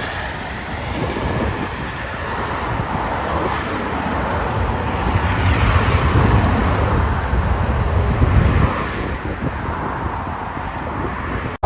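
Jet roar from a Boeing 737-800's CFM56 engines on its landing rollout just after touchdown, a deep, broad rumble that swells about halfway through and eases off near the end.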